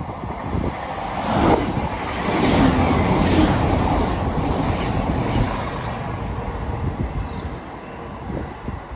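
A train passing, building to its loudest about two to three seconds in and then fading away.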